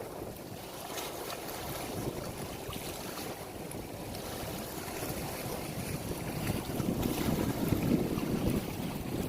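Moving water with wind buffeting the microphone: a steady rushing noise, heaviest in the low end, that swells in gusts about two-thirds of the way through.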